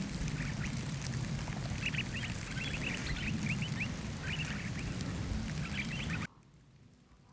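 A flock of pine grosbeaks calling: many short, overlapping whistled calls over a steady low rumble. The sound cuts off abruptly about six seconds in.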